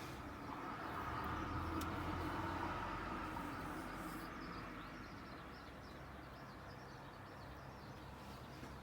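A vehicle passing by, its noise swelling and then fading over a few seconds, over a steady low hum.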